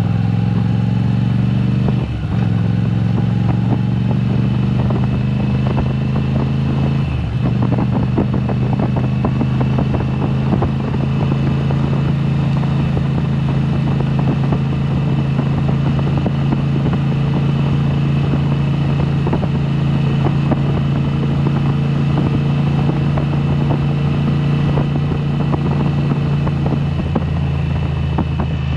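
2022 Moto Guzzi V7 Special's 850 cc transverse V-twin running through a Mistral exhaust with the dB killers removed, on the move. It pulls up in pitch, shifts gear about two seconds in and again about seven seconds in, then holds a steady cruise.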